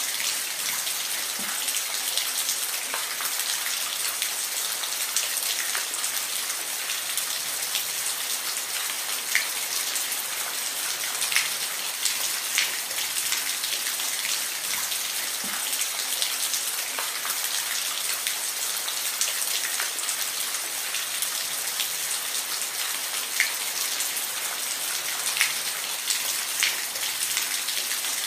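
Steady rain falling, a continuous hiss with the louder taps of single drops landing every second or so.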